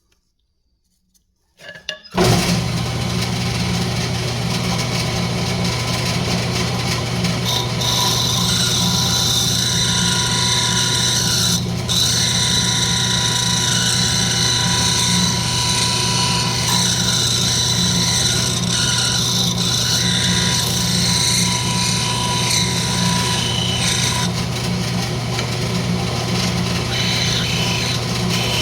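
Wood lathe switched on about two seconds in, then running with a steady motor hum while a turning tool cuts into spinning rosewood with a continuous scraping hiss, shaping the front of a pendant pull.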